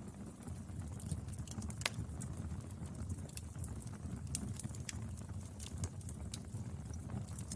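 Wood fire burning: a steady low rumble with irregular snaps and crackles of the burning firewood, one sharper pop about two seconds in.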